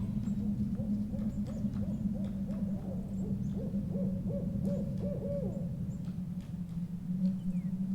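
Owl hooting in a quick run of short notes, about four a second, that stops about two-thirds of the way through, over a steady low background drone.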